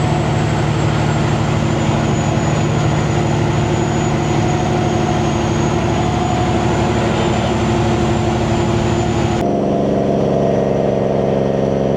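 Semi truck's diesel engine running steadily at highway cruise through 8-inch stacks, with a thin high turbocharger whistle above the drone. About nine and a half seconds in the sound changes abruptly, the whistle and upper hiss dropping away while the engine drone carries on at a slightly different pitch.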